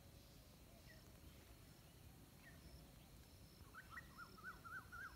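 A bird calling faintly: after a few scattered chirps, a quick run of about eight short hooked notes, roughly four a second, starts about three-quarters of the way in, over a low steady outdoor hiss.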